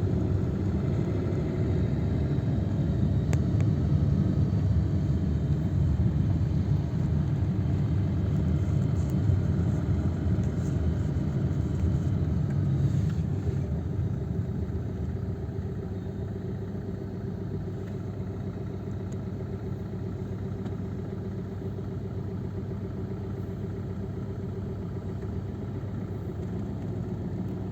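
Motor vehicle running, a steady low rumble; it is louder in the first half, then eases about halfway through into a quieter, even engine hum.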